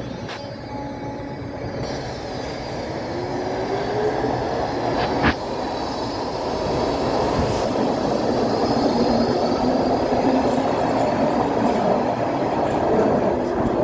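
Baltimore Metro Subway train of Budd-built railcars running along the platform, getting louder as it comes nearer, with a rising whine and a single sharp click about five seconds in.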